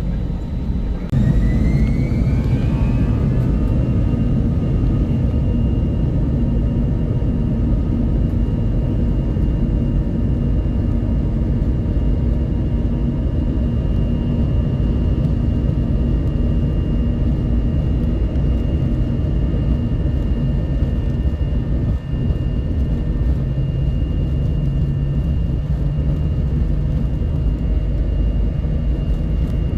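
Airbus A320 jet engines and airframe heard from inside the cabin: a steady low rumble, with an engine whine that rises about a second in and then holds at a steady pitch.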